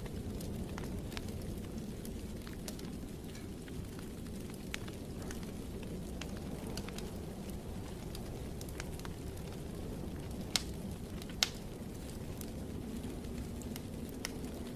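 Wood fire in a fireplace crackling: a steady low rumble of the flames with scattered small pops and ticks, and two sharper, louder pops a little past the middle.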